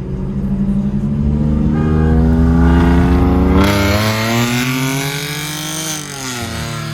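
Car engine accelerating hard at full throttle, its pitch climbing steadily for several seconds, then dropping sharply near the end.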